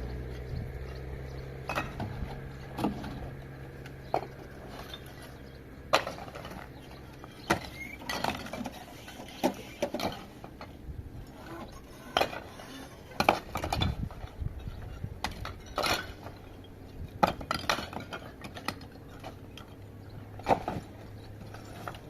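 Irregular clinks and knocks of hard objects being handled, some sharp and loud, with a low steady hum in the first couple of seconds and again near the end.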